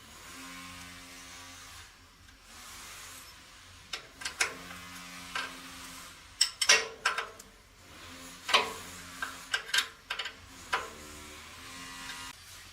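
Hand tools and metal parts being handled on a workbench: a series of sharp knocks and clinks, thickest in the middle, over a faint low steady hum.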